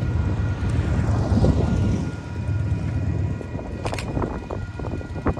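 Low, steady rumble of a freight train, louder for the first two seconds and then easing off, with faint steady high tones held over it. Two sharp clicks come about four seconds in and again near the end.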